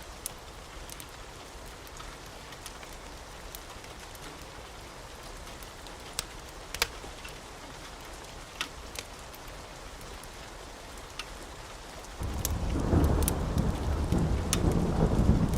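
Steady rain falling, with scattered sharp crackles from a wood fire. About twelve seconds in, a loud low roll of thunder breaks in suddenly and keeps rumbling.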